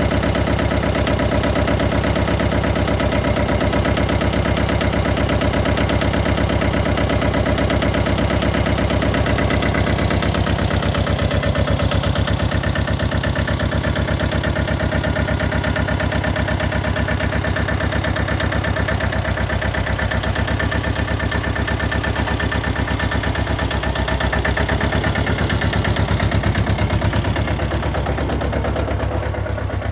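Mini tractor engine running steadily at a constant speed.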